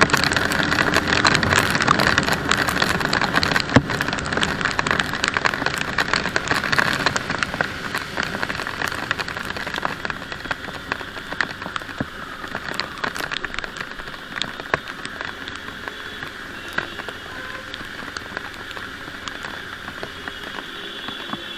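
Rain falling during a ride, with dense patter of drops close to the microphone over a steady hiss of wet road and traffic. It grows gradually quieter through the second half.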